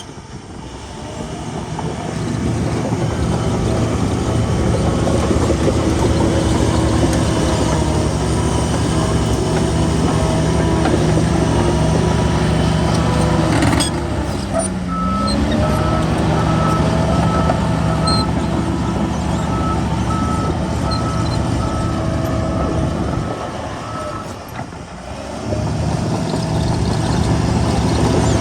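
Heavy diesel earthmoving machinery running hard. The engine note dips and picks up again about halfway and eases off once more near the end. A reversing alarm beeps steadily through the middle.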